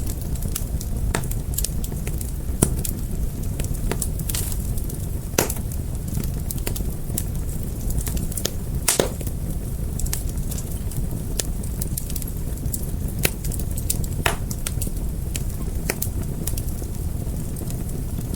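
Fire crackling: irregular sharp pops and snaps, a few standing out, over a steady low rumble.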